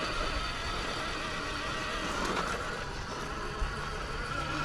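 Radio-controlled rock crawler driving, its electric motor and gears giving a steady whine. There is one sharp knock about three-quarters of the way through.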